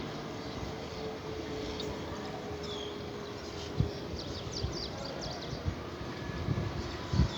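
Outdoor ambience: a steady background hum with a run of short, high bird chirps in the middle, and a couple of brief knocks.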